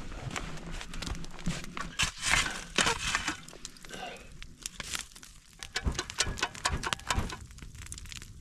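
Irregular rustling, clicks and knocks of things being handled, such as camp cooking gear or wrappings, denser about two to three seconds in and again around six to seven seconds.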